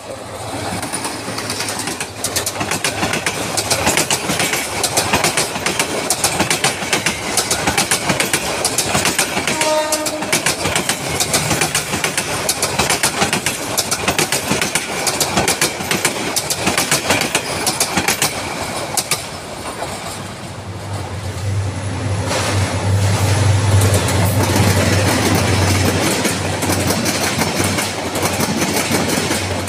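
Passenger train coaches rolling past close by, the wheels clattering over rail joints in a dense run of clicks. A short horn note sounds about ten seconds in, and a deeper low rumble joins from about twenty seconds in as a second train passes.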